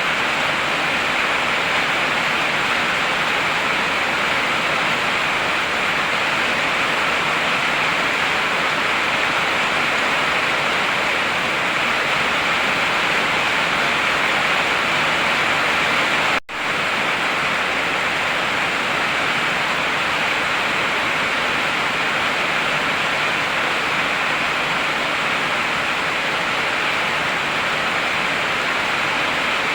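Heavy rain pouring steadily as an even hiss, with one momentary dropout about halfway through.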